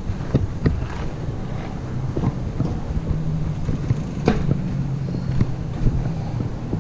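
Wind rumbling on the microphone while riding a mountain bike, with scattered clicks and knocks from the bike and one louder knock a little past the middle. A low steady hum joins about three seconds in.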